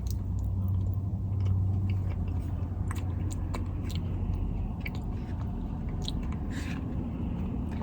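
A person chewing food close to the microphone: wet mouth clicks and smacks scattered throughout, over a steady low hum.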